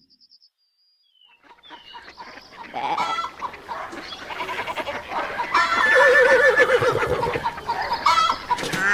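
Farm animal sound effects layered into a chorus, chickens clucking among other livestock calls, starting about a second in and growing louder.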